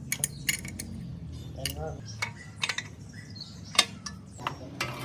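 Metal tools and small metal parts clinking and tapping irregularly, a dozen or so sharp clicks, the loudest near the end, over a steady low hum.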